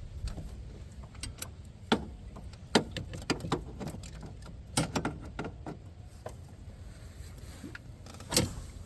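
Irregular metallic clicks and clanks of a socket and ratchet being worked onto a spark plug in the engine bay, with a sharper knock near the end.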